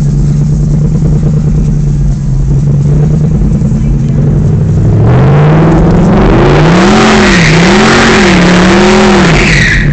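Audi R8 mid-engine sports car heard from inside the cabin, cruising with a steady engine note. About halfway through it accelerates hard and the sound gets much louder, with the revs rising and falling several times before easing off near the end.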